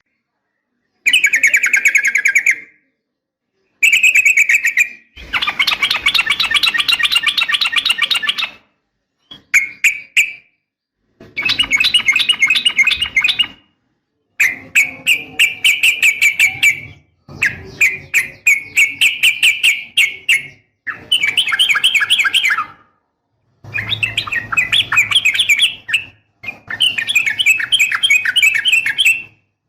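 Yellow-vented bulbul (trucukan) singing long, rapid chattering trills, offered as a female calling to males. About nine bouts, each one to three seconds long, are separated by short gaps of complete silence.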